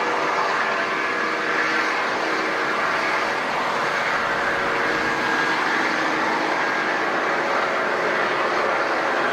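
Airliner engines running steadily: a continuous rushing noise with several steady whining tones over it.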